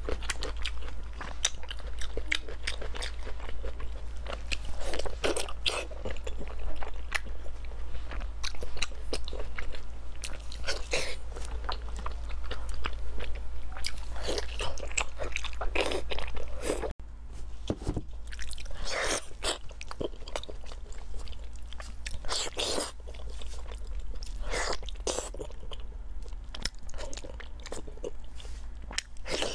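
Close-miked chewing and biting into pork belly: a dense run of wet mouth clicks and smacks, broken once by a brief dropout a little past halfway.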